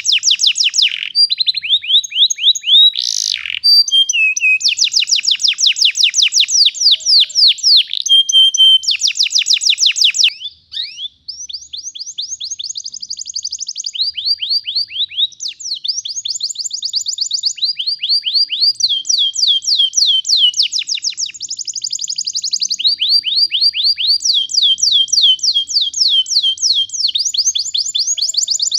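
Domestic canary singing a long, unbroken run of rolling trills: rapid repeated whistled notes, each trill at a different pitch, with a brief pause about ten seconds in.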